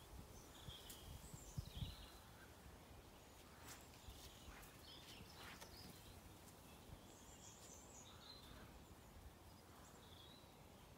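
Near silence: quiet outdoor ambience with a few faint, distant bird chirps, and a few faint low thumps in the first two seconds.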